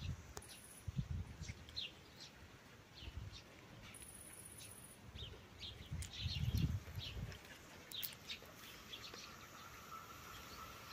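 Small birds chirping in short, scattered calls. A low rumble swells about six seconds in, and a faint steady whine sets in near the end.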